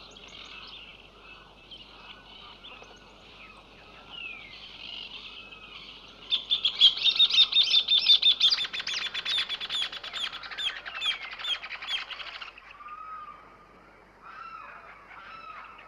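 Hornero calling: scattered chirps at first, then about six seconds in a loud, fast run of repeated high notes lasting about six seconds, followed by a few softer calls.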